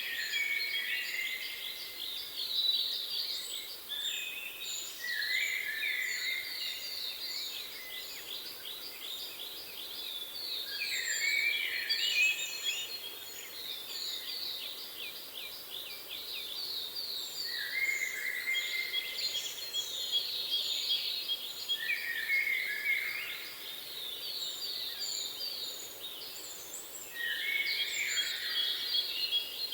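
Songbirds singing in repeated bouts of rapid trills every few seconds, each bout a fast run of high notes with lower whistled phrases beneath, over a faint steady background hiss.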